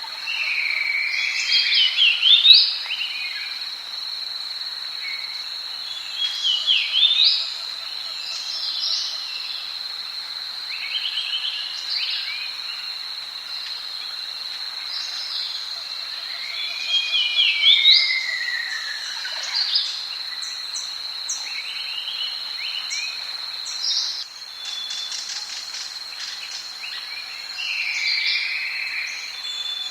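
Rainforest ambience: wild birds calling, with short whistles that glide up and down every few seconds and one long falling call about seventeen seconds in, over a steady high-pitched drone. A run of quick clicks comes about twenty-five seconds in.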